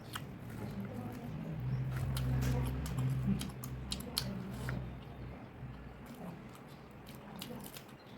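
Close-miked chewing and biting of food, with many sharp wet mouth clicks and smacks. A low rumble swells and fades in the middle.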